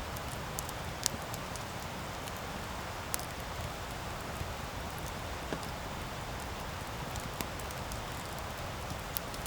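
Wood campfire burning with a steady hiss and sharp crackling pops every couple of seconds, the loudest pop about a second in.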